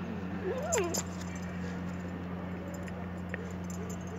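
Dogs playing: one dog gives a single short whine that rises and falls in pitch about half a second in, followed by a couple of sharp clicks, over a steady low hum.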